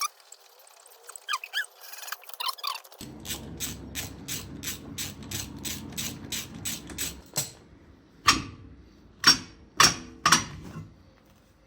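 Scissor jack being wound up with a ratchet, the pawl clicking about four times a second for a few seconds, followed by a few loud knocks near the end.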